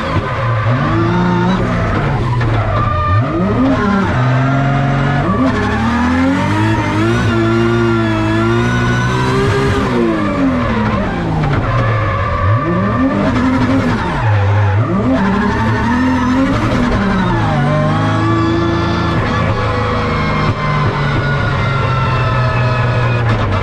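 2JZ-engined Toyota GR Supra drift car being driven hard: the engine revs rise and fall again and again as the throttle is worked, over the noise of sliding tyres.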